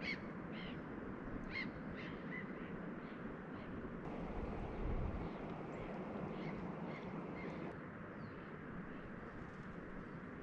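A bird calling with short, high calls in a loose series, thickest in the first few seconds and again a little past the middle, over a steady background rush.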